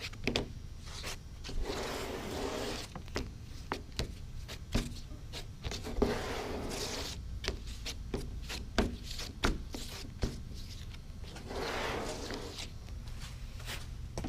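Body filler (Bondo) being worked with a plastic spreader: repeated scraping and rubbing strokes in three spells, with scattered clicks and taps between them.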